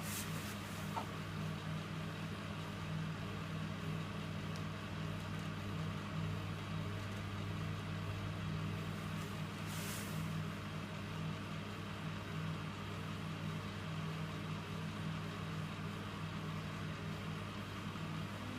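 Electrolux W455H commercial washing machine running mid-cycle on its Warm 60 wash: a steady low hum with a slight pulse, and a brief hiss about ten seconds in.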